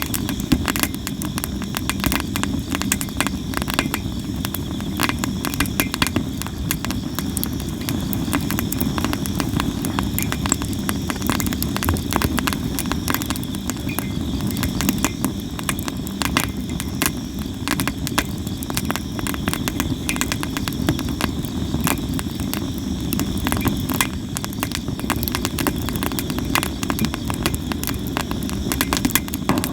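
Sawara cypress wood burning in an open campfire, crackling and popping constantly over a low rumble of the flames. A steady insect trill sounds behind it.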